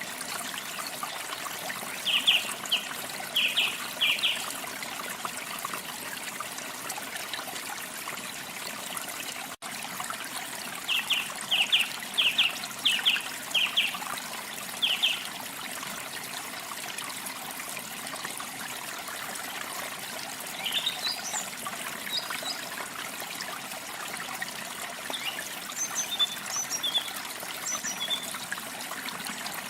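Steady trickling of a small stream or running water, with small birds chirping over it: short series of quick, evenly spaced chirps a few seconds in and again around the middle, then scattered higher chirps in the second half.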